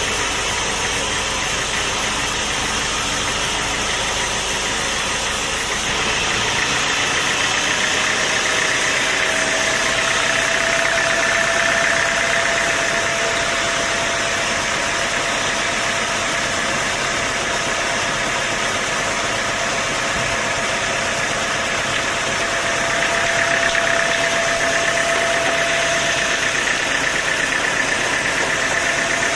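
Sawmill machinery running steadily, with a steady whine that comes in about a third of the way through and fades near the end.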